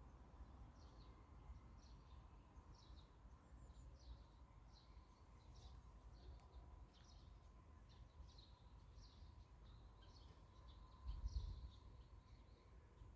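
Faint, rapid series of short high chirps from a small bird, about one and a half a second, over quiet outdoor background. A brief low rumble near the end is the loudest moment.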